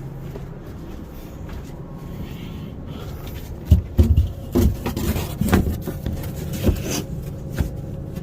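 A few quiet seconds, then from about four seconds in a run of irregular knocks and thumps with some rubbing, as wooden cabinet parts are handled and moved about.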